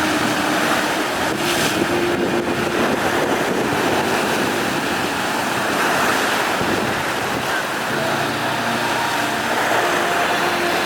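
Strong wind blowing across the microphone over heavy waves, a steady rush of noise with a faint hum of tones underneath.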